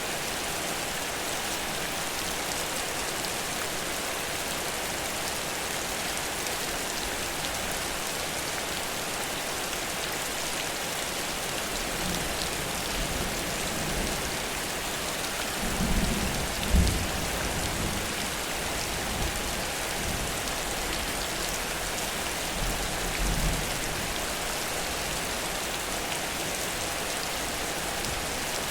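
Heavy rain pouring steadily, with a low roll of thunder rumbling through the middle, loudest about halfway through.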